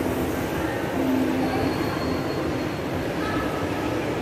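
A train running on rails: a steady rumble, with a thin high wheel squeal about a second and a half in.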